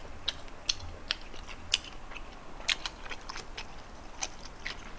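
A person chewing food close to the microphone, with irregular wet mouth clicks a few times a second. The food is gochujapchae, stir-fried pork strips and peppers.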